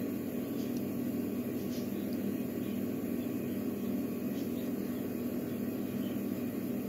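Steady background hum, with faint scratches and light ticks from a lock pick working the sliders of an Evva DPS lock under tension wrench pressure; no slider has set yet.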